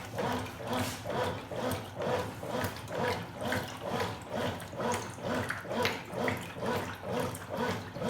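Top-loading washing machine agitating a full load in water: the agitator swishes back and forth about one and a half times a second, with the water sloshing and the motor's whir rising and falling at each reversal.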